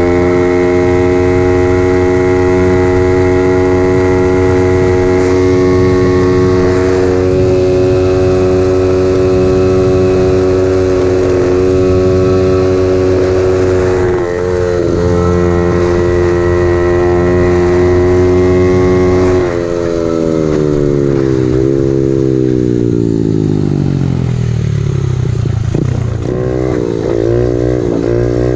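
Honda CRF50 pit bike's four-stroke single-cylinder engine, a built 108cc unit breathing through a fabricated Z50R-style muffler, running at steady high revs with a brief dip about halfway, then revs falling steadily as it slows, and revving back up in short pulls near the end.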